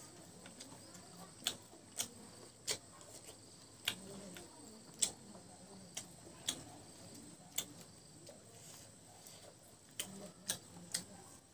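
Close-miked open-mouthed chewing of rice and mutton curry: irregular sharp wet mouth clicks and smacks, roughly one a second, over a faint low murmur.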